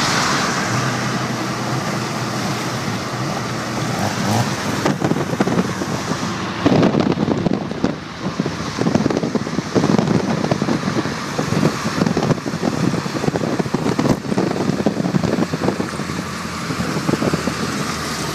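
A car at speed on the road: engine and wind noise, becoming louder and choppier from about seven seconds in.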